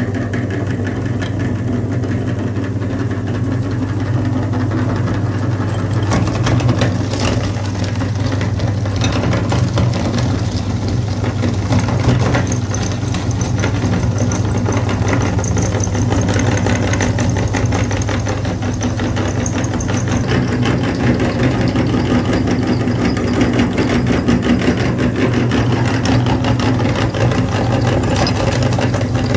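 A tractor engine running steadily at idle, with a faint high whine from about twelve to twenty seconds in.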